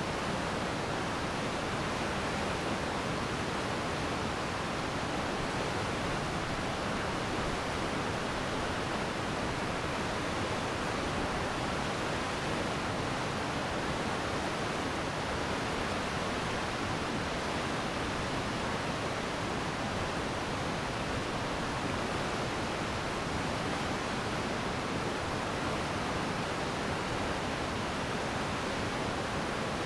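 Glacier meltwater stream rushing and splashing in a steady, unbroken flow.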